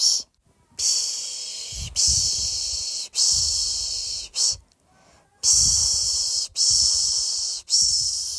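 A person shushing a baby with the Turkish "piş piş": a long, high hiss repeated about once a second, in runs of three or four strokes with short breaks between runs.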